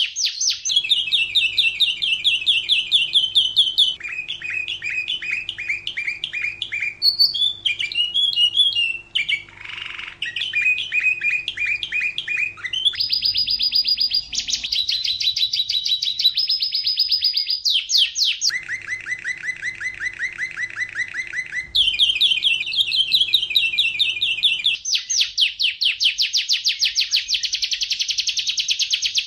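Domestic canary singing a continuous run of rapid trills, each one repeating a single note many times a second. About every two to four seconds the song switches to a new trill at a different pitch.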